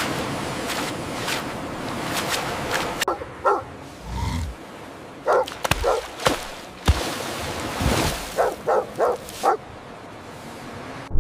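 Rushing water noise, then a series of short, yelping animal calls, with a quick run of four close together near the end.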